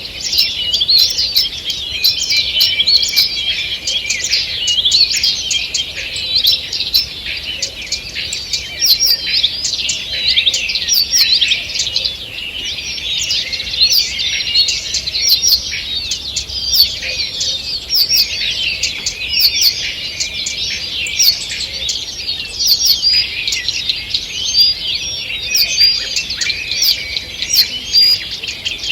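Dawn chorus of many songbirds singing at once, a dense, continuous tangle of overlapping chirps, trills and whistles.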